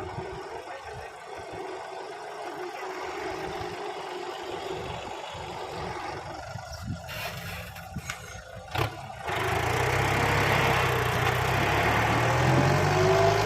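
Kubota tractor's diesel engine running steadily, faint at first with a few knocks, then much louder about nine seconds in.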